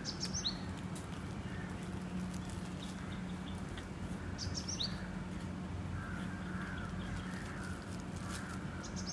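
Birds calling: a short, high two-note chirp comes twice, about four and a half seconds apart, with fainter calls between. A steady low hum runs underneath.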